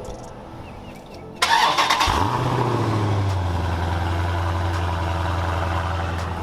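Pickup truck engine cold-starting: about a second and a half in it cranks and catches with a sudden burst, briefly revs up, then settles into a steady low idle.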